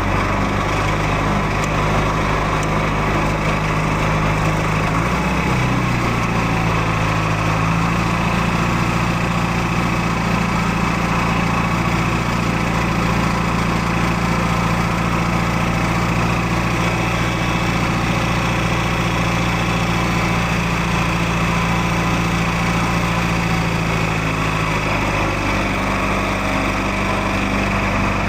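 John Deere tractor engine running steadily while towing; its note shifts about five seconds in and shifts back near the end.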